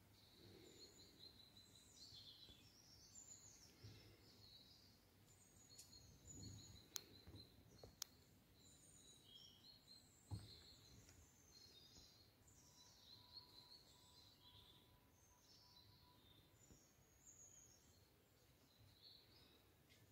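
Near silence, with faint birds chirping in the background and a few faint clicks.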